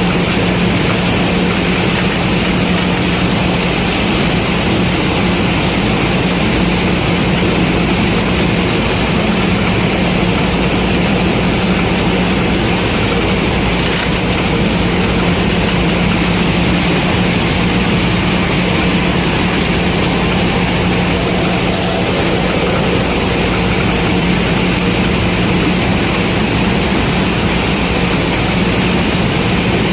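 Combine harvester running steadily while harvesting corn: a constant engine hum under a dense, even mechanical din that does not change.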